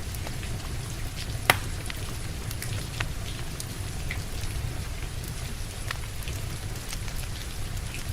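Steady rain mixed with the crackling of a wood fire in a fireplace: scattered small snaps throughout, and one loud sharp pop about a second and a half in.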